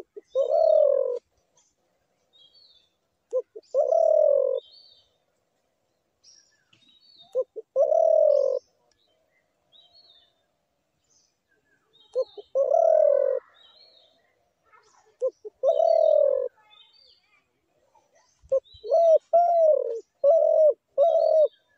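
Spotted dove calling: repeated cooing phrases, each a short clipped note or two followed by a longer coo, about every three to four seconds, then a quicker run of four short coos near the end. Faint high chirping of small birds behind.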